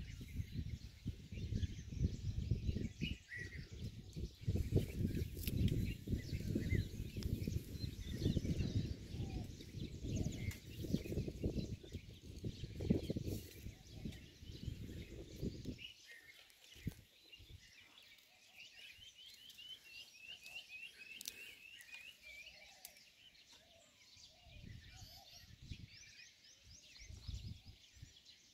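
Small birds chirping in dry woodland, with a low rumble, like wind or handling on the microphone, through the first half that then falls away. About two-thirds of the way in, one bird gives a quick run of about a dozen repeated chirps.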